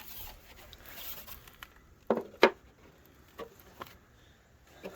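A few sharp knocks and clicks of hand tools on metal bolts and fender parts, the loudest two close together about two seconds in, with two fainter ones after.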